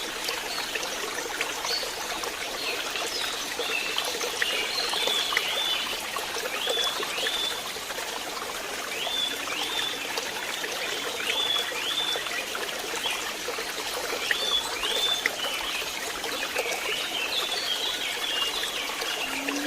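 Stream water trickling and flowing steadily, with a small animal giving short, high chirps over it, often in pairs, repeated every second or so.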